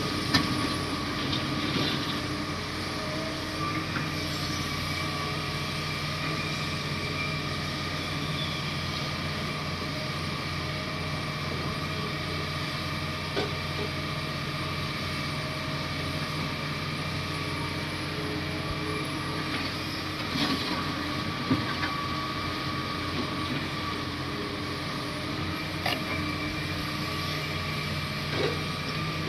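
Komatsu D58 bulldozer's diesel engine running steadily, with a few short knocks and clanks now and then.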